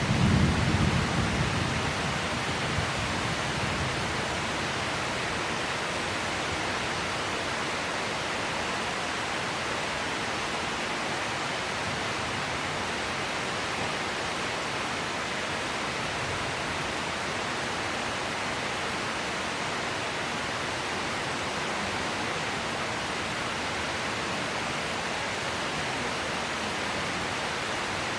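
Heavy rain falling steadily in a downpour. A low rumble of thunder dies away in the first couple of seconds.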